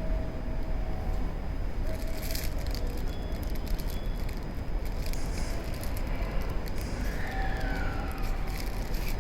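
Electric passenger train moving at a station platform: a steady low rumble with faint thin whining tones, and a short falling whine near the end.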